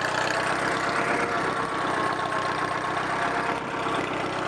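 Allis-Chalmers tractor engine running steadily as the tractor is driven along.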